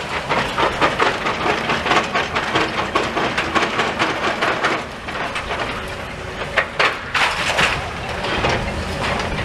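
Demolition and clearing of a fire-gutted brick building: rubble and debris clattering and cracking in a dense run of knocks over a rumble, easing off briefly about halfway through before another burst.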